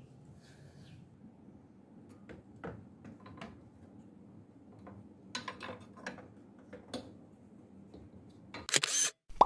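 Scattered light clicks and small metallic taps of parts and fasteners being handled in a car's engine bay, over a faint low hum. A cluster of clicks comes about five to six seconds in, and a louder, brief rattle near the end.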